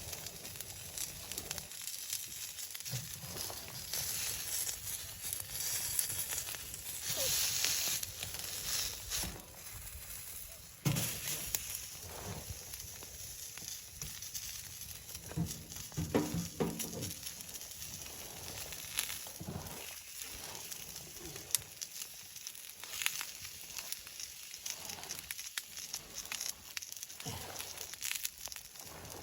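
Wood fire crackling and sizzling, with scattered sharp pops over a steady hiss. A brief pitched sound comes about sixteen seconds in.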